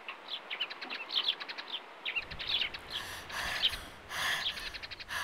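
Small birds chirping and twittering in quick, short repeated calls.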